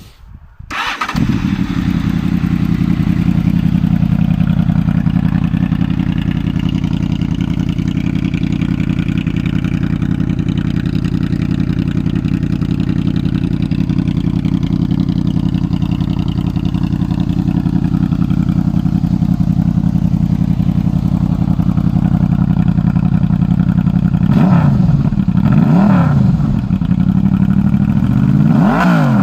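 Honda VFR800 V4 motorcycle engine with Black Widow aftermarket exhaust starting about a second in, then idling steadily. In the last five seconds it takes several quick throttle blips, its pitch sweeping up and falling back.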